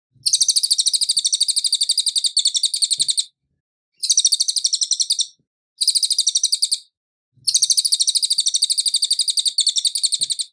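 A cililin songbird singing in four long, rapid, high trills of evenly repeated notes, broken by short pauses.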